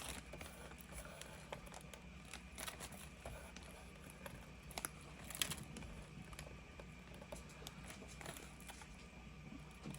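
Faint, scattered clicks and light rustling of small resin pieces and a bag being handled.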